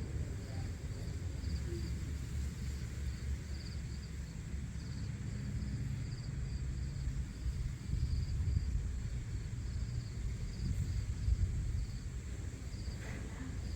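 Outdoor ambience: insects chirping in an even, repeating pulse, over a steady low rumble like wind on the microphone.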